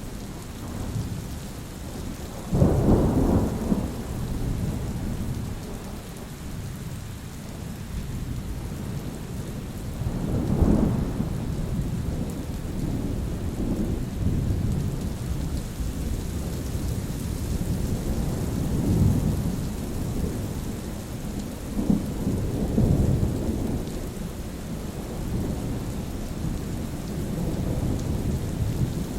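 Steady rain falling with thunder rolling throughout: a sudden loud clap of thunder a few seconds in, then further low rumbles rising and fading over the rest of the stretch.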